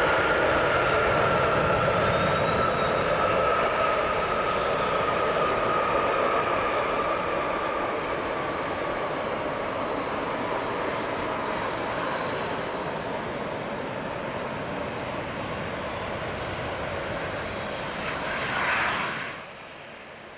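Boeing 777-300ER's GE90 jet engines running loud on landing, with a high whine that slowly falls in pitch as the noise gradually fades. Near the end there is a brief swell, and then the sound cuts off abruptly.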